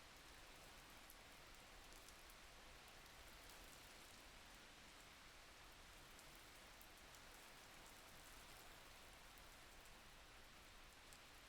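Faint, steady rain, with scattered small drop ticks over an even hiss.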